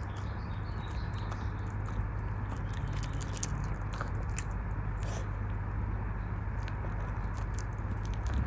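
Dog biting and chewing on a dental chew bone, with irregular crunches and clicks, over a steady low hum.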